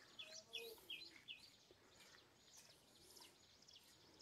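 Faint bird chirping: short, hooked high notes repeated about three times a second, clearest in the first second and a half and then fading, over quiet outdoor ambience.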